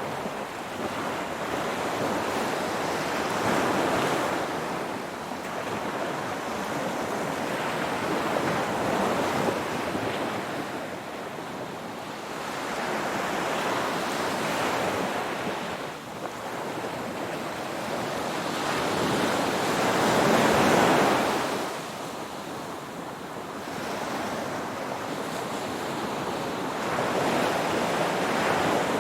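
Ocean waves washing ashore: a steady rush of surf that swells and eases every few seconds, with the largest surge about two-thirds of the way in.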